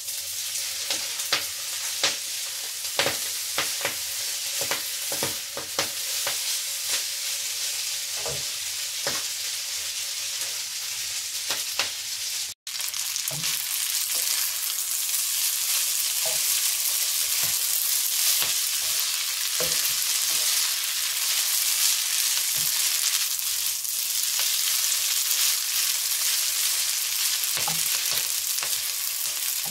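Spaghetti and purslane sizzling as they fry in a nonstick pan, with the clicks and scrapes of a utensil stirring and tossing them. The clicks come thick and fast in the first twelve seconds; after a brief break the sizzling runs steadier, with only occasional taps.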